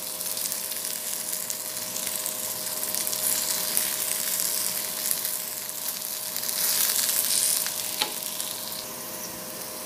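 Masala-coated okra sizzling as it shallow-fries in oil in a nonstick pan over medium heat, with a wooden spatula stirring through it. A faint steady tone runs underneath, and there is one sharp click about eight seconds in.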